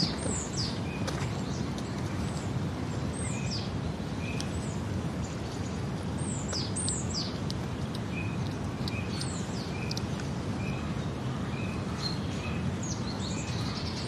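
Wild birds chirping: quick high chirps that drop in pitch, often two in a row, and a separate run of short, evenly spaced lower notes. Under them is a steady low background rush.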